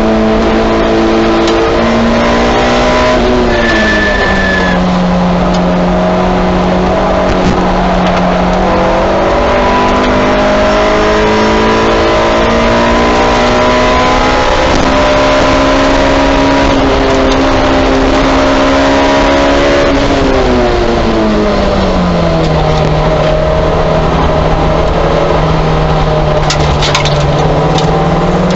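Honda S2000 race car's four-cylinder engine heard from inside the cockpit, held in one gear with no shifts. Its pitch drops about three seconds in and again around twenty seconds as the driver lifts and brakes for corners, then climbs again under throttle.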